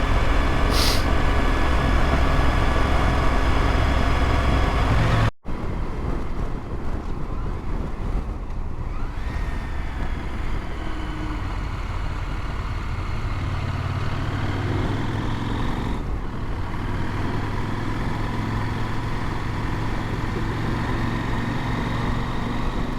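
KTM adventure motorcycle engine running while riding through town traffic, with a brief rise in pitch as the engine revs up. The sound is louder at first, breaks off abruptly about five seconds in, and goes on a little quieter.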